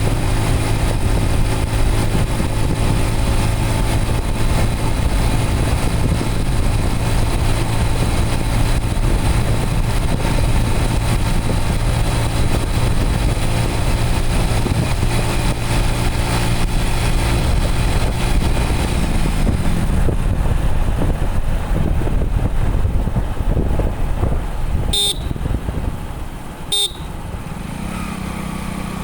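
Motorcycle engine running steadily while riding, over a rushing noise. About two-thirds of the way through the engine note fades away, and two short sharp clicks come near the end.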